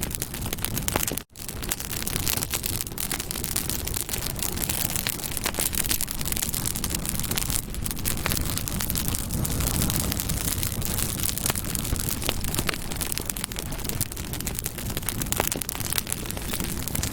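Campfire burning, with dense crackles and pops over a low rumble of flames. The sound cuts out for an instant about a second in.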